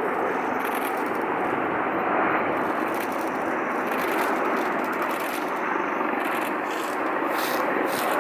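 Four-engine Boeing 747 freighter's jet engines running on its landing approach: a steady rushing roar.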